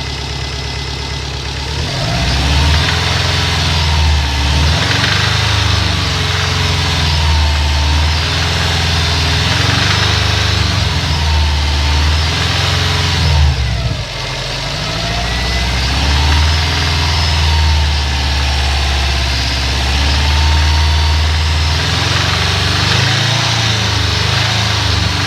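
2011 Subaru WRX's turbocharged flat-four engine idling and being revved up and let back down several times. A faint noise under it is one the owner thinks could be the early beginning of rod knock.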